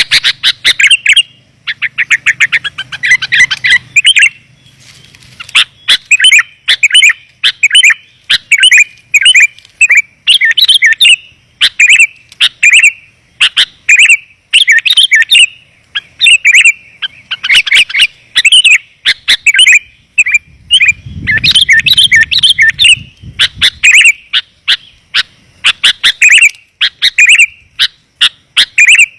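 Sooty-headed bulbul (kutilang) song played as a lure call: loud, clear chirping phrases repeated over and over with short gaps, some running into fast trills.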